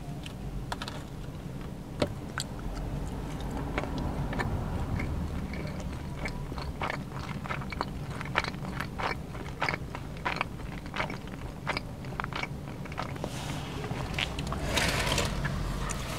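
Close-miked chewing of sushi rolls, with many short wet mouth clicks over a steady low hum. A brief rustle comes near the end.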